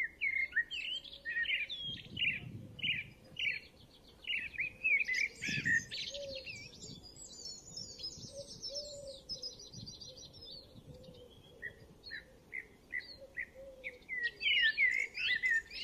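Songbirds chirping and singing: runs of short repeated notes, with a stretch of fast, high twittering in the middle.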